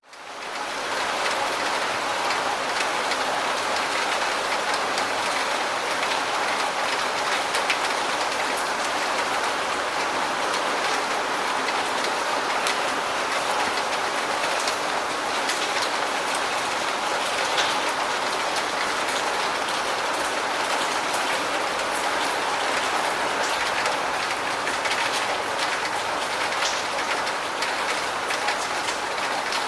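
Steady rain falling, with scattered sharper drops ticking on a surface; it fades in from a brief gap over the first second.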